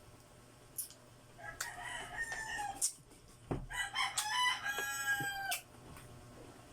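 A rooster crowing twice, each crow a pitched call lasting a second or two, the second one longer and falling off at the end.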